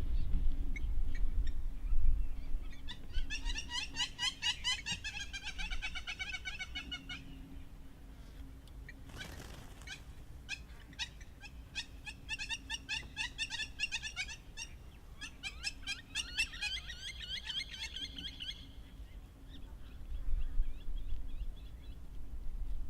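Hamerkop calling: two long runs of rapid, high chattering notes, one starting about three seconds in and lasting some four seconds, the other from about ten seconds in to eighteen. A low rumble underneath is strongest at the start, and a brief sudden noise falls between the two runs.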